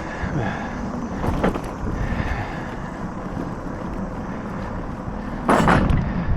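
Wind buffeting the microphone over the steady rumble of a bicycle rolling on a paved trail, with a brief louder rush about five and a half seconds in.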